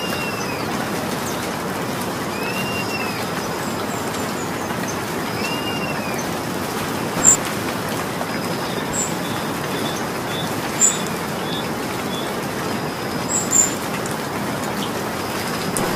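Steady rain falling as an even hiss. Over it, a bird gives a short arching call three times, about three seconds apart, and a few brief sharp high sounds come in the second half.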